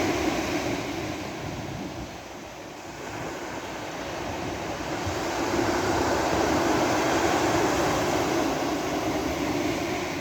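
Sea waves breaking and washing up a beach: a rushing surf that ebbs about two seconds in, swells again for several seconds, then eases near the end.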